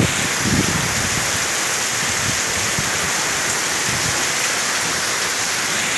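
Heavy rain pouring down in a steady downpour, with gusts of wind buffeting the microphone in the first second.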